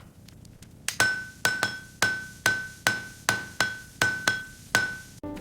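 Hammer blows on an anvil, about eleven strikes at roughly two a second, starting about a second in. Each blow rings at the same clear pitch.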